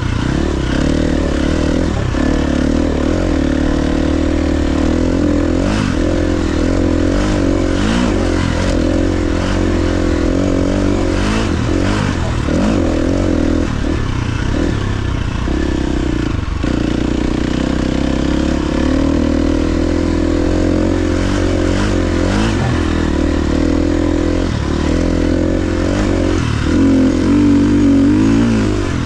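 KTM XC-F 350's single-cylinder four-stroke engine running while the dirt bike is ridden, its pitch rising and falling with the throttle and shifts. It is loudest briefly near the end.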